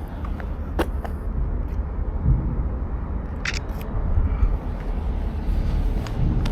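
Two sharp clicks of a mirrorless camera's shutter, about one second in and again about three and a half seconds in, over a steady low outdoor rumble.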